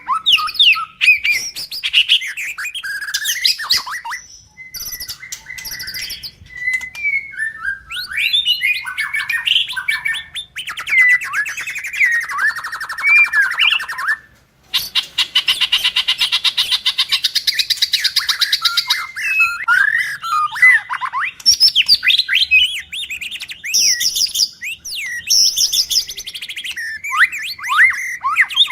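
Male white-rumped shama singing a long, varied song of quick whistled phrases and trills. About halfway through there is a short break, then several seconds of harsh, rattling chatter before the whistling resumes.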